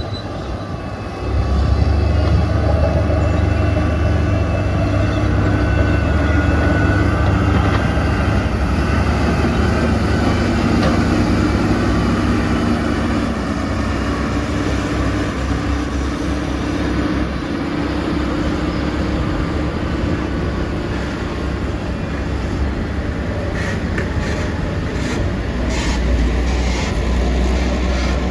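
Heavy diesel earthmoving machinery running steadily under load, a deep rumble that grows louder about a second in, with a few metallic clanks near the end.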